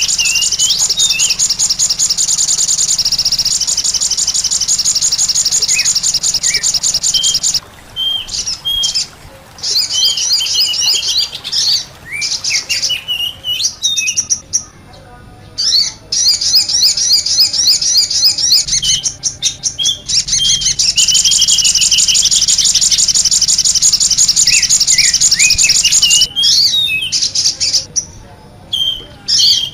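Lure recording of small songbirds chirping, with fast, high-pitched twittering trills and lower slurred whistles. The calls break off briefly several times, most clearly around the middle and near the end.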